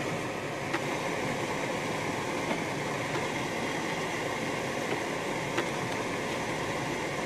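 Steady road and engine noise inside a moving car's cabin, its snow tyres running over an unplowed, snow-covered highway, with a few faint ticks.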